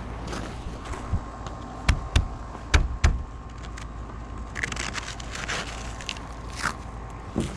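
Footsteps crunching over a thin layer of snow and ice, with a few sharp cracks about two to three seconds in. Steady low background noise runs underneath.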